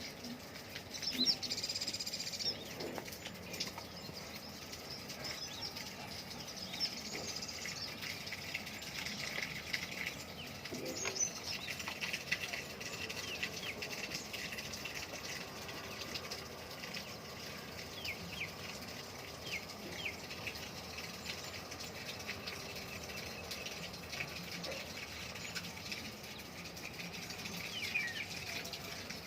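Birds chirping and calling: many short chirps repeating throughout over an even background hiss, with a few louder calls near the start.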